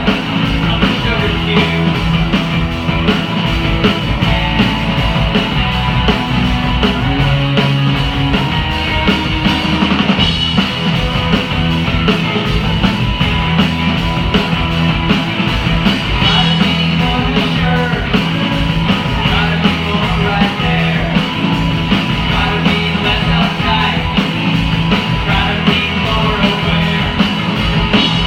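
Live rock band playing loudly with a steady drum-kit beat.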